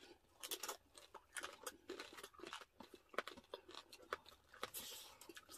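Close-miked crunching and chewing of crispy roast pig's head skin (lechon), a run of many short crackles.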